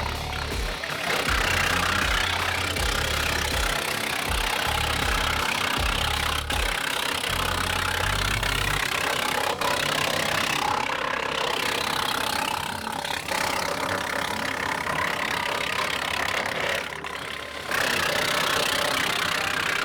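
Tractor-powered PTO wood chipper running under steady load, its engine and flywheel making a continuous mechanical din, with a short lull about seventeen seconds in.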